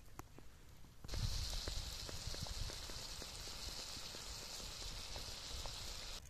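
Tomato, pepper and onion mixture sizzling in a black steel pan over a wood fire: a steady hiss with many small pops. It starts suddenly about a second in and stops just before the end.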